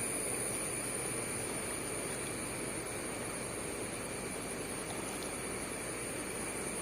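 Steady rushing of flowing stream water, with a steady high-pitched whine over it.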